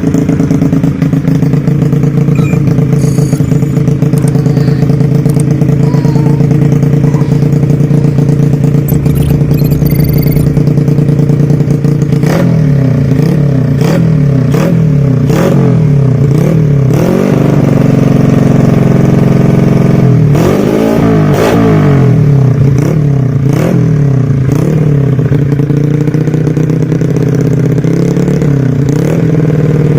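Yamaha Jupiter Z's four-stroke single-cylinder engine running loud through an aftermarket open exhaust, idling steadily at first. About twelve seconds in it is blipped in quick repeated revs, then given a longer rev, with a few short blips near the end.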